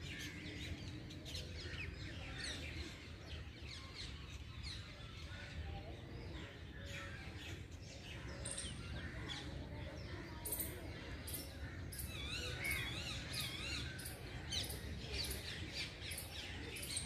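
Small birds chirping and calling, with many short high notes throughout and a wavering, warbling song phrase about twelve seconds in, over a steady low background rumble.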